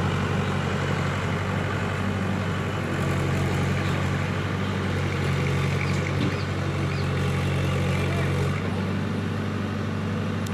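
Heavy diesel engine running steadily. Its note shifts slightly about three seconds in, and the sound drops a little in loudness near the end.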